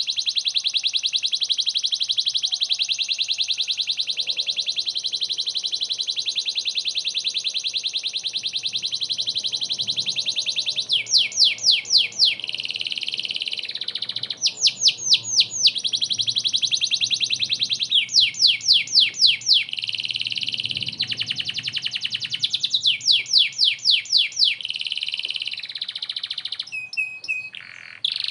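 Domestic canary singing: a long, fast, even trill, then from about eleven seconds in, repeated bursts of five or six quick sweeping notes alternating with shorter steady trills.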